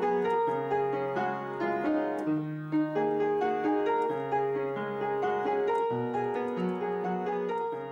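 Solo piano playing a slow original piece: held bass notes changing every second or two under a gentle melody.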